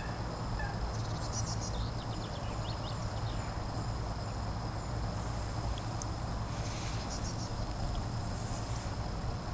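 Wild birds calling in short, high chirps, once about a second in and again near seven seconds, over a steady low rumble and a constant thin high-pitched tone.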